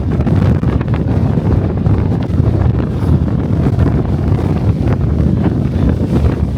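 Strong wind buffeting the microphone of a DJI Osmo Pocket 3: a loud, steady low rumble with no let-up.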